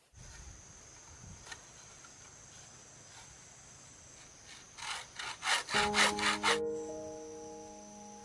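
Hand saw cutting wood: a fast run of strokes, about six a second, getting louder about five seconds in. Insects buzz steadily throughout, and piano music comes in near the end.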